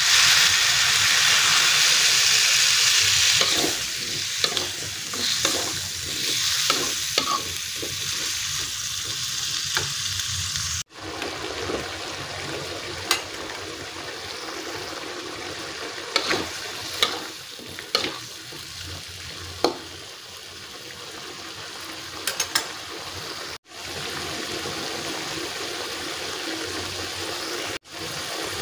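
Chayote strips and chili paste sizzling in a wok while being stirred. The sizzle is loudest for the first few seconds, then settles to a softer frying hiss with scattered sharp clicks and scrapes of the spatula against the pan.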